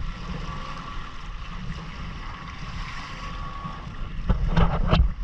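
Wind on the microphone and water moving past a Hobie Island sailing kayak as it sails, a steady rushing noise. About four seconds in it turns into loud crackling buffets and knocks.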